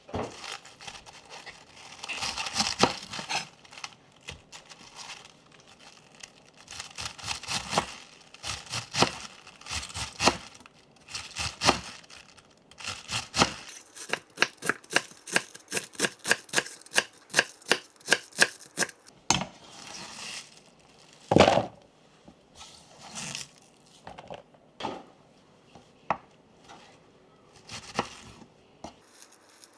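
Kitchen food-prep noises: rustling and tearing, then a quick even run of knife chops on a cutting board, about three a second, and a single louder knock a little past the middle.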